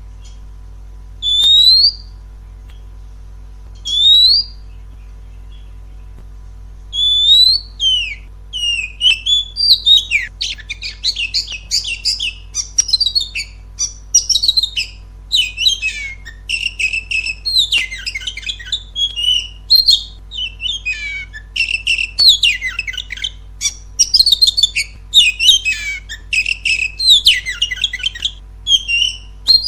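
Oriental magpie-robin song: two single rising whistles a few seconds apart, then from about seven seconds in a continuous, varied run of whistled and chattering phrases. A steady low hum lies underneath.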